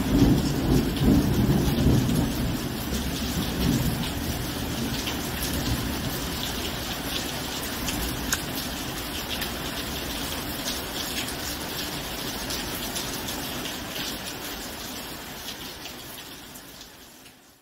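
Steady rain with a low rumble of thunder in the first few seconds, the whole fading out gradually near the end.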